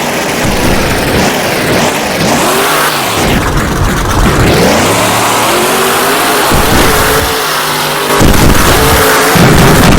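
Monster truck's supercharged V8 engine running loud, revving up and dropping back several times during a run.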